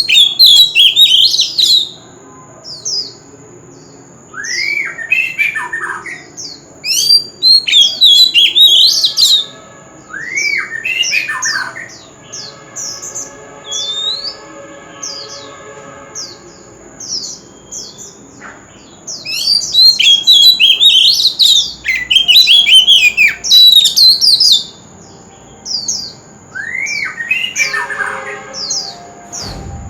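Oriental magpie-robin singing: loud phrases of quick swooping whistles and harsh squawky notes, each a second or two long, separated by short pauses.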